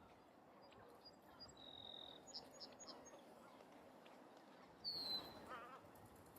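Faint steady background hiss with scattered high, thin chirps from small birds; the loudest is a short falling chirp about five seconds in.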